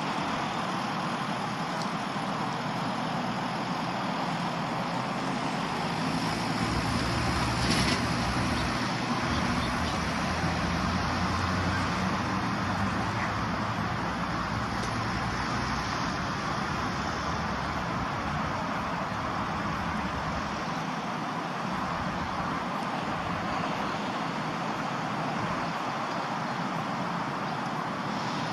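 Steady road traffic noise, swelling to a louder low rumble from about six seconds in to about seventeen, loudest briefly near eight seconds, as something heavier passes.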